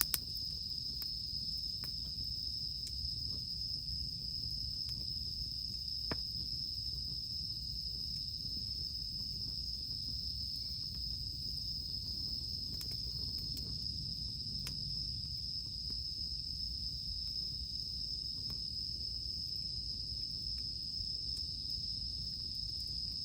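Cicadas droning in a steady, unbroken high-pitched chorus, with a few sharp pops from a crackling wood campfire scattered through it.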